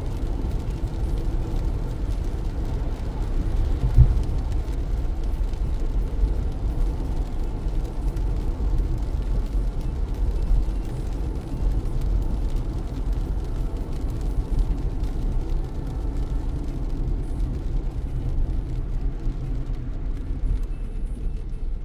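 A car driving on a wet road in heavy rain, a steady low rumble of road and engine noise, with one sharp thump about four seconds in.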